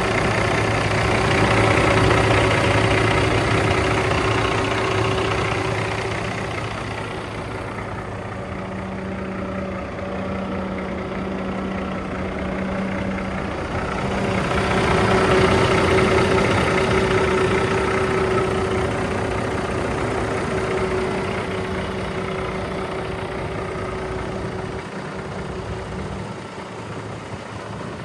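Cummins ISX diesel engine of a 2005 International 9200i truck idling steadily, growing louder and fainter by turns.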